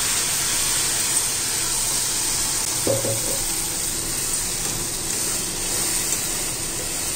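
Wet ground masala paste sizzling in hot oil in a wok: a steady, loud hiss as the paste fries.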